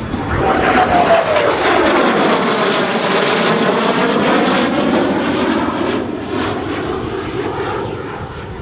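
F-16C fighter jet making a low, fast knife-edge pass, its jet noise swelling sharply to its loudest about a second in with a falling whine as it goes by, then slowly fading toward the end.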